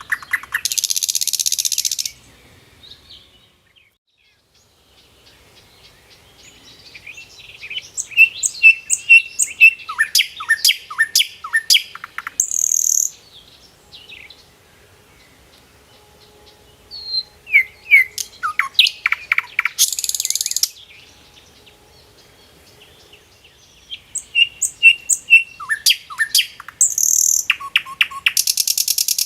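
A songbird singing repeated song phrases, one about every eight seconds: each phrase is a run of quick chirps and short falling whistles ending in a harsh buzz about a second long.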